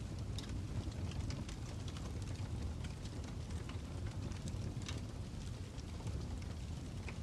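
Fire crackling: irregular sharp pops and snaps over a steady low rumble of flames.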